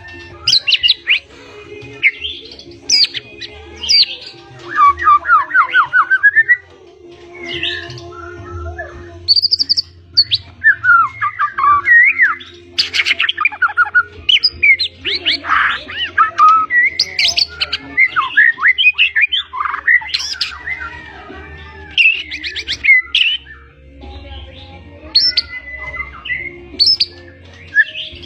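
White-rumped shama (murai batu) in full song: phrase after phrase of rapid trills, rising and falling whistles and quick chattering runs, with short pauses between phrases, over a steady low hum.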